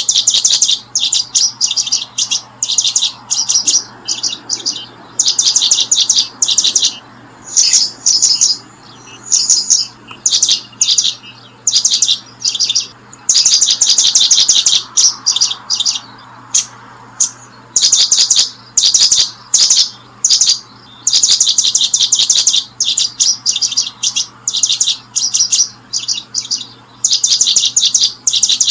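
Bird chirping in quick, trilled bursts of high notes, one burst after another with short gaps between.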